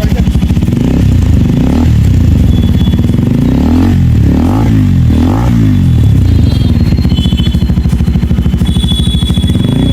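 KTM Duke 390's single-cylinder engine running loud through an aftermarket Akrapovic exhaust with a pulsing idle, blipped up and back down a few times in quick succession around the middle.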